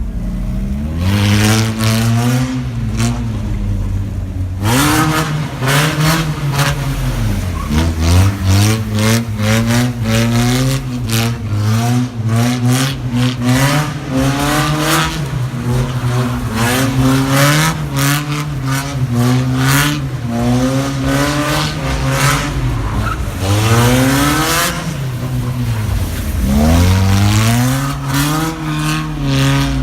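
Car engine revved hard against a two-step launch rev limiter. The exhaust crackles and bangs in rapid strings while the revs repeatedly dip and climb back up. It starts as a steadier engine note and turns much louder and popping-heavy from about five seconds in.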